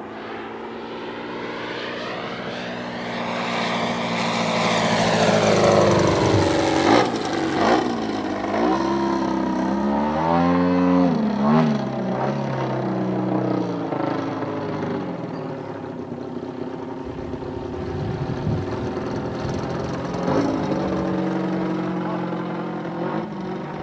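Giant-scale radio-controlled airplane's engine and propeller in flight, growing louder to a close pass about five to seven seconds in, with the pitch arching up and then dropping as it goes by. The engine note then wavers up and down, fades and swells again later as the plane manoeuvres.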